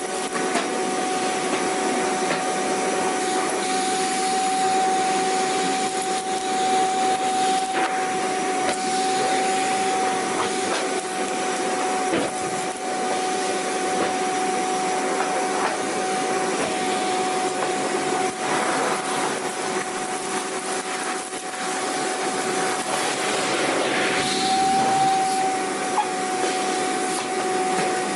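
Vacuum cleaner running steadily, its motor holding one even pitch over a constant rush of air. Brief scratchy rubbing noises come and go over it.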